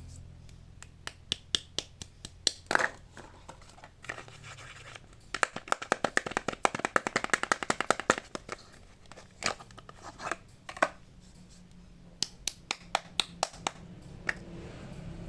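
Hands scratching and picking at bars of soap and their wrappers: scattered sharp scratches and clicks, with a quick run of rapid scratching strokes, about ten a second, a third of the way in.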